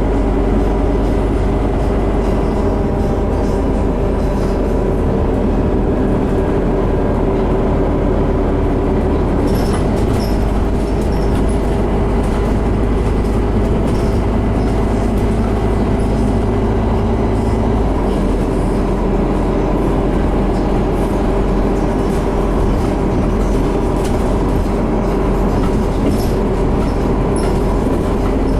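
Interior of a Scania CN270UB low-floor city bus under way: a steady engine and drivetrain drone with rattles, the engine note shifting about two-thirds of the way through.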